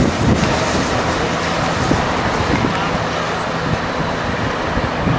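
Caltrain commuter train rolling away along the track: a steady, loud rumble of wheels on rail with a low hum, slowly thinning.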